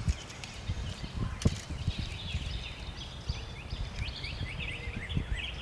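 Many small birds chirping in quick, repeated short calls over a low rumble, with a few sharp clicks, the loudest about one and a half seconds in.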